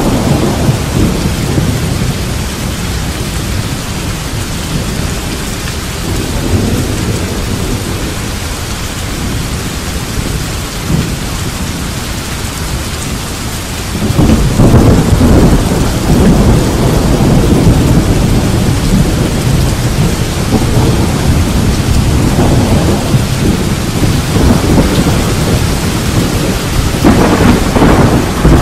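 Steady rain falling, with thunder rumbling in about halfway through: a sudden, long, heavy roll that swells again near the end.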